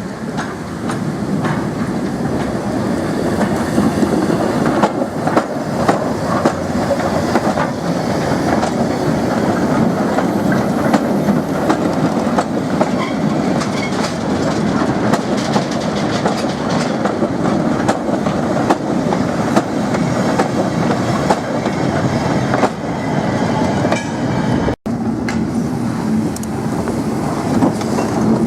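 Train running on the rails, a steady loud rumble with the clickety-clack of wheels over rail joints. The sound cuts out for an instant about 25 seconds in.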